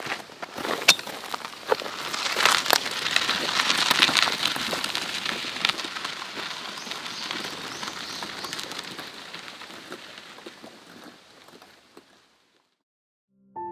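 Campfire burning, crackling with sharp pops over a steady hiss of flame, fading out toward the end.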